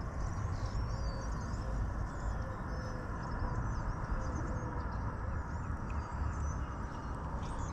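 Birds chirping and twittering over a steady low rumble. About a second in, a faint low call repeats several times for a couple of seconds.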